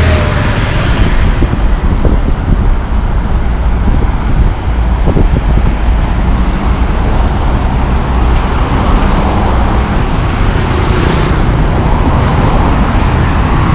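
Steady road traffic noise from motor vehicles on the road, with one vehicle passing close about ten seconds in.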